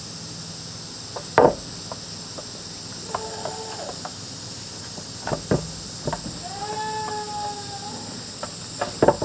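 Goats bleating: a short call a little after three seconds and a longer one at about six and a half seconds. Several sharp knocks sound between them, and a steady high insect drone runs underneath.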